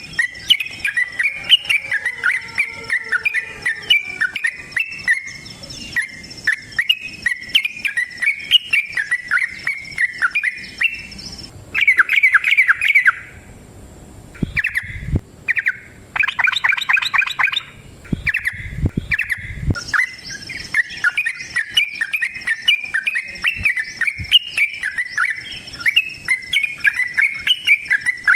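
Yellow-vented bulbul (trucukan) singing a long, rapid chattering song of quick bubbly notes, with louder bursts about halfway through and a brief pause just after. A steady high-pitched hum sits behind it for most of the time.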